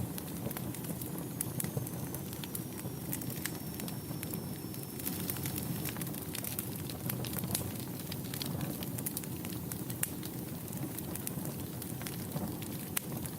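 Fireplace fire crackling: a steady low rumble of flames with many irregular sharp pops and snaps. A faint high whistle, falling slightly in pitch, runs through the first half.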